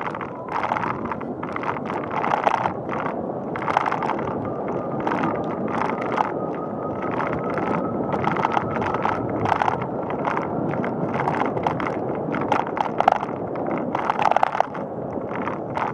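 Bicycle rolling along a paved path: steady tyre and road noise, with frequent small rattles and knocks from the bike over bumps in the surface.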